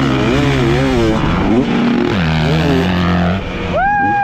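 Dirt bike engines revving, their pitch rising and falling with the throttle. Near the end a higher, smoother tone climbs, holds for about a second and drops away.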